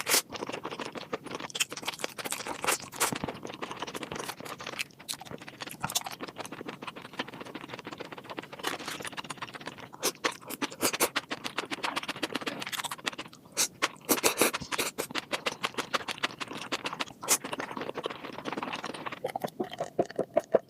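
Close-up eating sounds of seafood: wet chewing with frequent sharp clicks and crunches throughout.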